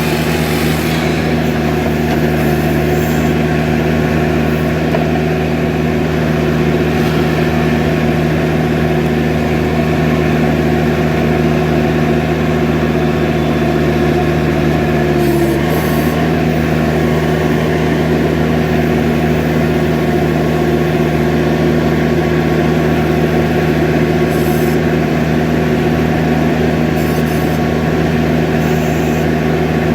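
Skid steer loader engine running steadily at constant speed, with a brief dip in pitch about halfway through.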